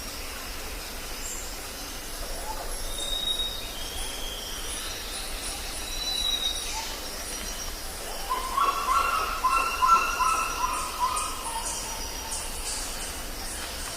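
Tropical jungle ambience: birds calling over a steady, high, pulsing insect chorus. Thin whistled bird calls come a few seconds in, and from about eight seconds in a louder, lower call of short broken notes lasts two or three seconds.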